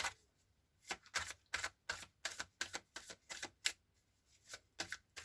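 Tarot cards being handled: a run of sharp card snaps and clicks, a few a second, with a short pause before a few more near the end.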